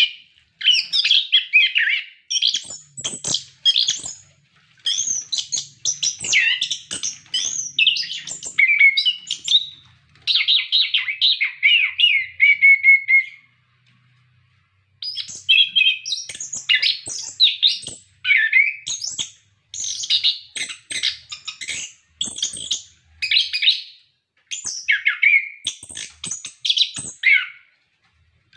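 Chestnut-capped thrush (anis kembang) in full song: a long run of rapid, varied, high-pitched phrases in bursts of a second or two, broken by a short pause a little before the middle.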